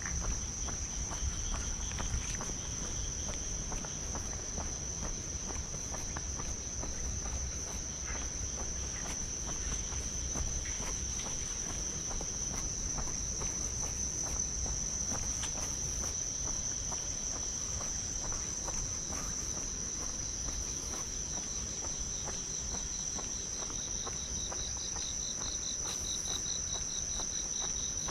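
Insects chirring in a steady high drone, with a second, pulsing chirp joining near the end, over scattered faint clicks and rustles.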